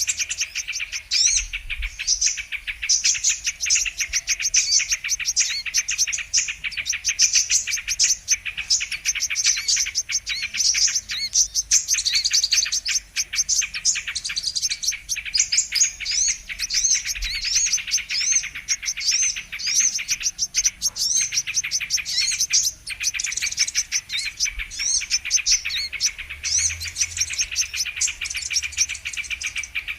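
Brown-throated sunbirds (kolibri kelapa) calling continuously in a dense, rapid, high twittering chatter. This is a lure recording, played to draw in sunbirds.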